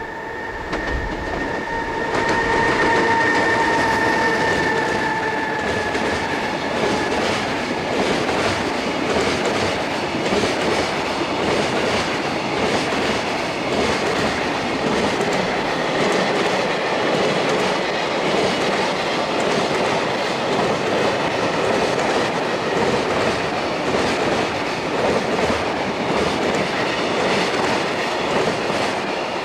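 A long freight train hauled by an EH500 electric locomotive passing at speed: wheels clattering over rail joints and a dense rolling rumble from the wagons, with a steady whine that fades out over the first several seconds.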